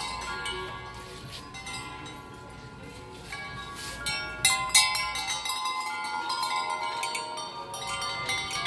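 Wind chimes ringing, loud: clusters of notes struck together near the start and again a few seconds in, each ringing on and overlapping the others.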